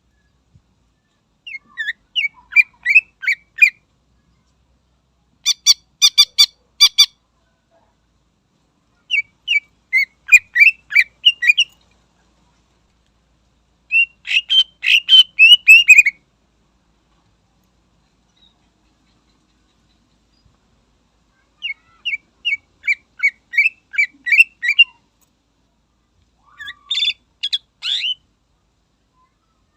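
Greater green leafbird (cucak ijo) singing in six short bursts of rapid notes, each about two seconds long, separated by silent pauses of a few seconds.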